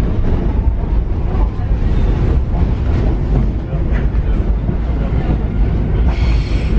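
Paris Metro Line 7bis MF 88 train running on steel rails: a steady low rumble with scattered clatter, and a short high squeal near the end.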